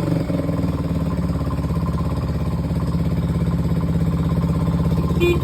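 1971 Honda SL70's small single-cylinder four-stroke engine idling steadily with an even pulse, cold, its idle set slightly raised. Near the end the horn gives a short beep.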